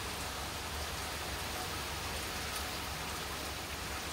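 Steady hurricane rain falling, an even hiss with a constant low rumble underneath.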